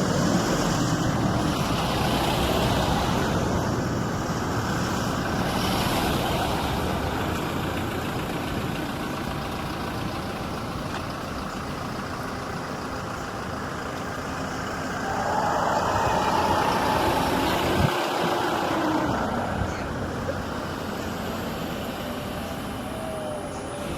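Motor vehicle engine running steadily, growing louder for a few seconds past the middle before easing off again.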